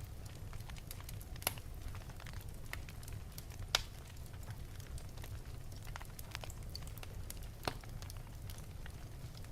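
Wood fire burning in an open fireplace: scattered sharp crackles and pops over a steady low rumble of flames, the loudest pop just under four seconds in.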